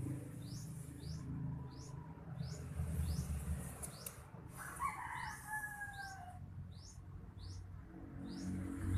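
A bird calling over and over with short rising high chirps, about two a second, with a longer two-note call about halfway through. A low hum runs underneath.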